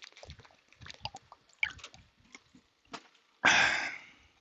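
A person drinking water, with small gulping and swallowing clicks, then a sudden loud rush of noise about three and a half seconds in that fades within a second.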